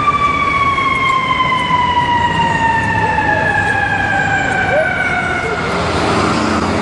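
Fire truck siren wailing: one long tone that glides slowly down in pitch after peaking at the start, fading out near the end, over a low rumble.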